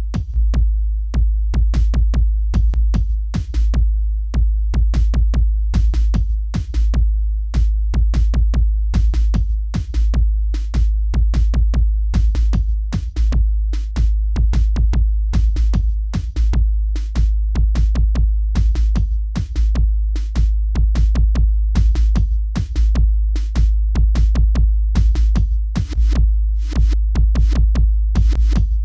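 Electronic beat music: rapid drum-machine hits over a heavy, sustained deep bass that restarts about every three seconds.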